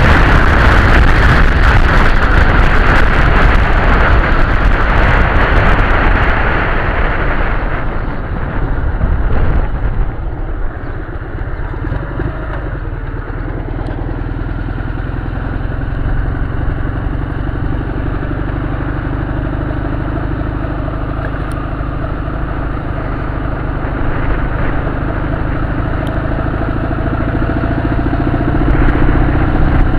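Dnepr motorcycle's flat-twin engine running on the move. Heavy wind rush covers it for the first several seconds; from about ten seconds in the engine note is quieter and steady, and it picks up again near the end.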